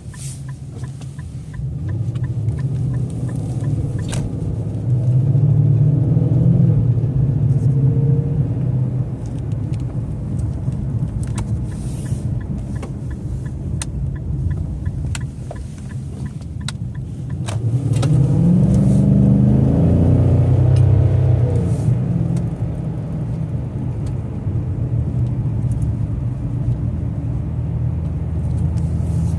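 2012 Infiniti M56 V8 exhaust heard from inside the cabin, with a 2-inch X-pipe and straight pipe in place of the Y-pipe and resonators, running through stock mufflers. It is a low rumble at low cruising speed, swelling and rising in pitch under light throttle about five seconds in and again near the middle, then settling back.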